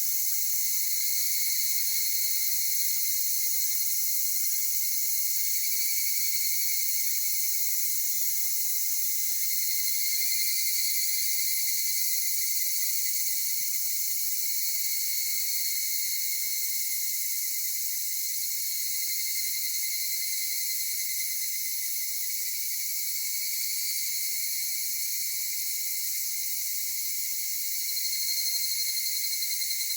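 Dense chorus of calling insects: a steady, high-pitched trilling that swells slightly about ten seconds in and again near the end.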